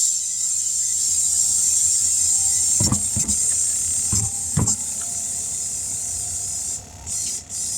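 Compressed air hissing steadily from an air hose at a newly mounted tire that will not take air, with air escaping instead of filling it. There are a few knocks about three to four and a half seconds in, and the hiss breaks off briefly twice near the end.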